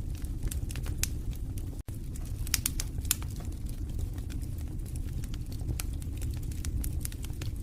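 Wood fire burning in a fireplace: a steady low rumble of flames with frequent crackles and sharp pops, the loudest pops about two and a half to three seconds in. The sound cuts out for an instant just before two seconds in.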